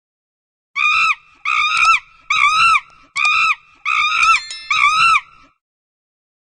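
A high-pitched animal cry repeated six times in quick succession, each call a short arched squeal that rises and falls in pitch.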